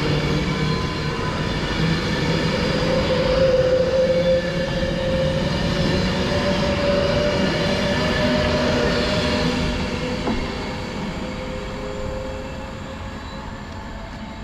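Class 390 Pendolino electric train pulling out, its traction motors whining steadily with a slight rise in pitch. The sound fades as it draws away over the last few seconds.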